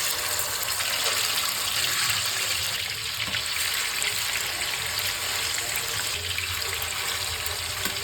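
Water running steadily from a kitchen tap, an even rushing splash.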